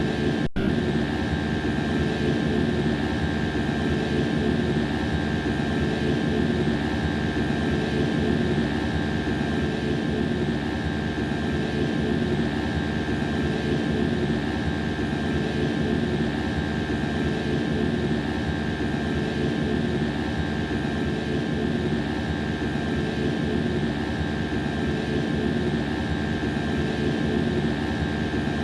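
Daikin air conditioner running steadily after startup: a dense machine drone with a steady high whine and a fine rapid rattle, the sound of the unit shaking.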